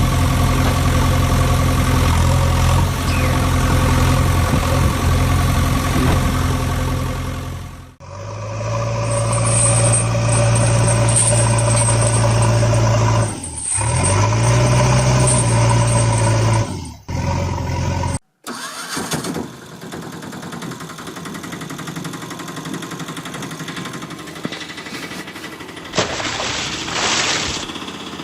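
Vehicle engine running steadily, in several recordings cut together. A low, even engine hum runs for about eight seconds and cuts off abruptly. A second engine then runs with two brief drop-outs. After a short gap, a quieter running sound follows, with a brief louder burst near the end.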